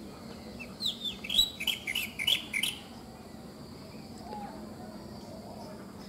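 Black drongo calling: a quick run of about a dozen sharp chirping notes, some gliding in pitch, lasting about two seconds and starting about a second in. A steady insect drone runs underneath.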